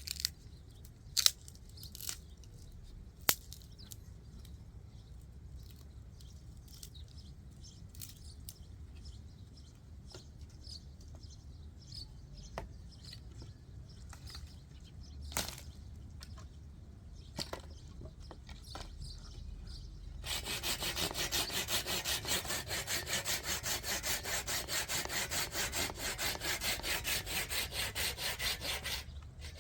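Fast, even rasping strokes, as of wood being sawn or rubbed, starting about two-thirds of the way in. Before that, scattered sharp knocks and clicks.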